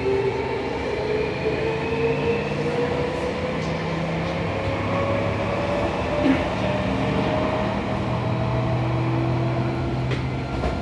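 Toshiba IGBT-VVVF inverter and traction motors of a Seibu 6000 series electric train whining as it accelerates, heard from inside the motor car, with the pitch rising steadily. Wheels rumble on the rail underneath, with a couple of rail-joint clicks near the end.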